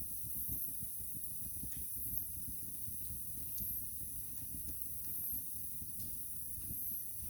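Wood fire crackling: scattered small sharp pops over a steady low rustle of burning, with a high hiss.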